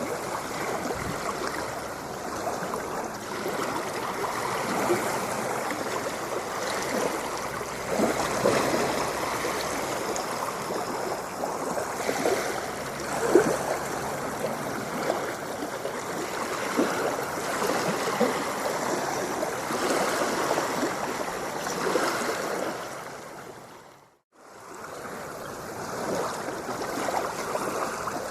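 Continuous rushing, splashing and gurgling water, with many small irregular splashes over a steady wash. About 24 seconds in it fades briefly to silence, then fades back in.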